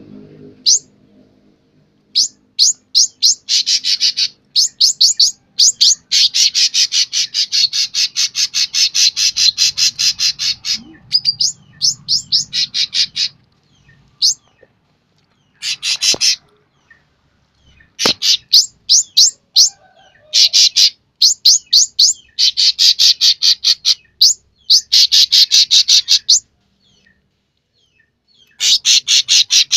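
Cucak ranting songbird singing vigorously: rapid, high trills of chirps in phrases of a few seconds with short pauses between them. Two sharp clicks come about halfway through.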